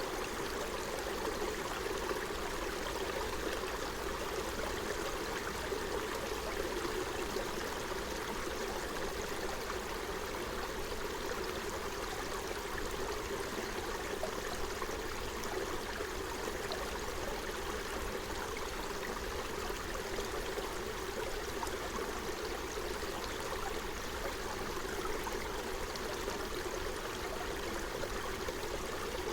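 Forest stream running over stones, a steady babbling and gurgling rush of water.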